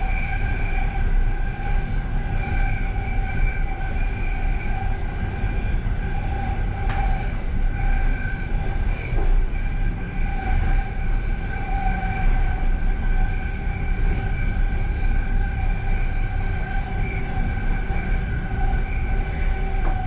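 Passenger train running at speed, heard from inside the last car: a steady low rumble with a steady high whine over it and a few faint clicks.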